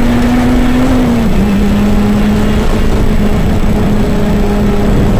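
Honda rally car's engine running hard at high, steady revs, heard inside the cabin with road noise from the tyres. Its pitch dips a little just after a second in, then holds level again.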